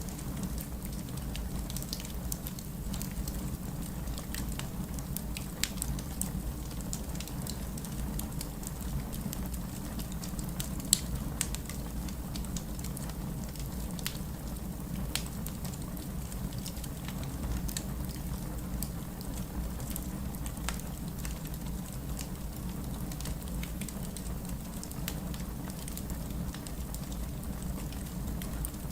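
Wood fire crackling with scattered sharp pops, one louder snap about eleven seconds in, over a steady low rumble of heavy rain.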